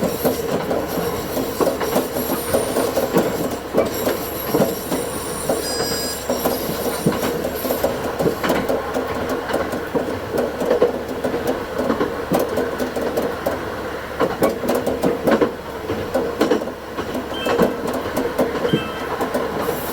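Diesel railcar running along the track, heard from the cab and sped up to double speed: a steady engine drone with rapid wheel clicks over the rail joints. Faint thin high squeals come through during the first third.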